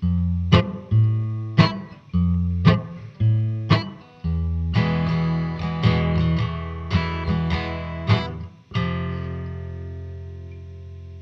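Instrumental guitar music: chords strummed about once a second, then faster strumming, ending about three-quarters of the way through on a final chord that rings on and slowly fades.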